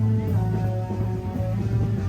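Guitar music playing, with held notes over a strong steady bass.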